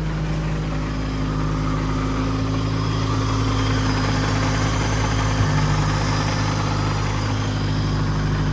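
Honda B-series four-cylinder engine of a 1998 Civic idling steadily, running just after a clutch replacement. It gets slightly louder from about three seconds in, with a single short knock about five and a half seconds in.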